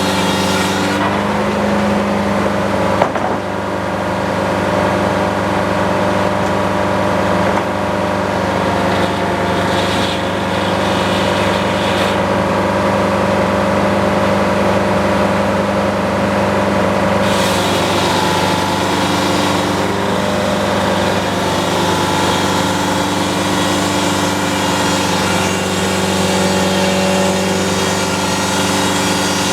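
Sawmill engine running steadily. A hissing layer above it fades about a second in and comes back after about seventeen seconds, with a single sharp knock about three seconds in.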